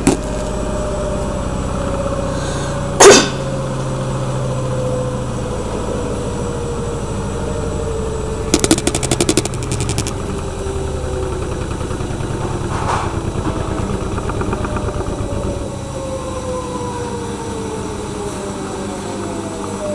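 LG washing machine on its final spin: a steady low hum with a motor whine that falls slowly in pitch as the spin winds down. A sharp loud knock about three seconds in, and a brief rattle of rapid ticks around nine seconds.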